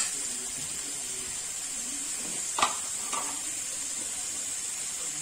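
Potatoes, tomatoes and green chillies frying in a little oil in a kadhai, a steady soft sizzle. A light click about two and a half seconds in.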